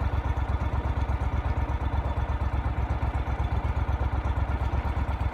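Engine of the vehicle being ridden in, running steadily with a rapid, even low pulse.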